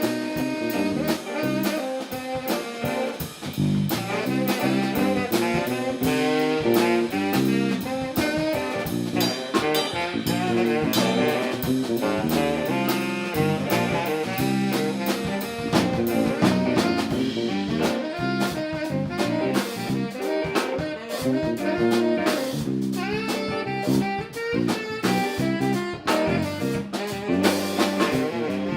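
Live band playing an up-tempo instrumental groove, with saxophone and brass lines over a steady drum-kit beat.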